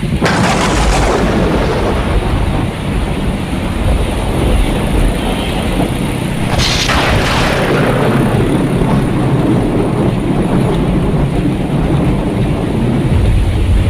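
Thunder during a rainstorm: a sharp thunderclap at the start and another about halfway through, each rolling into a long, loud rumble over steady rain.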